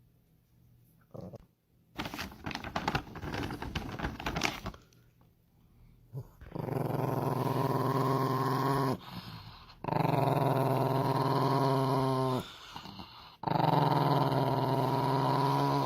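A dog growling: three long, steady, low growls, each about two and a half seconds, with short breaks between. Before them comes a couple of seconds of crackly rustling.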